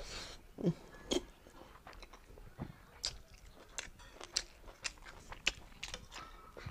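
A person chewing a mouthful of beef and rice: soft mouth clicks and smacks at irregular intervals, about one a second.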